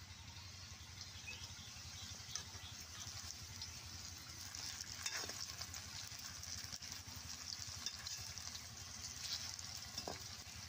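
Spice-coated okra frying in hot oil in a metal kadai, a steady sizzle, with a few sharp clinks and scrapes of a perforated metal skimmer as the pieces are stirred.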